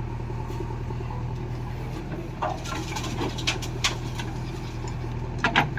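A diesel farm machine's engine idling with a steady low hum. Several short sharp clacks come from about two and a half to four seconds in, and a louder pair comes near the end.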